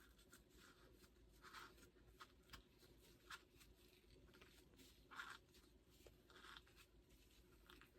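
Faint, short rubbing and scraping strokes, a few seconds apart, from cleaning and handling the small brass slides of a pocket cornet, over a low steady room hum.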